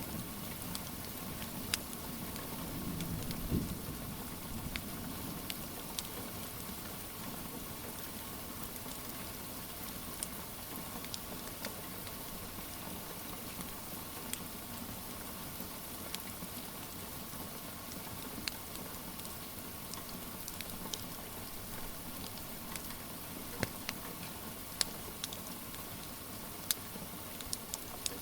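Steady rain falling, with scattered sharp crackles and pops from a wood fire, a few louder near the end. A brief low rumble swells about three seconds in.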